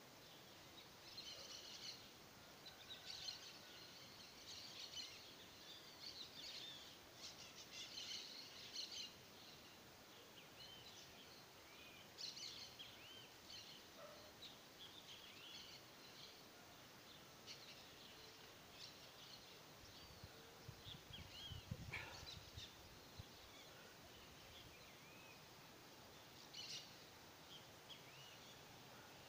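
Faint birds chirping, with a soft low thump and click about three-quarters of the way through.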